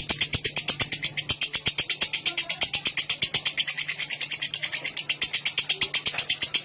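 Lovebird giving its long 'ngekek' chatter: a rapid, shrill rattling trill of about ten notes a second, held without a break.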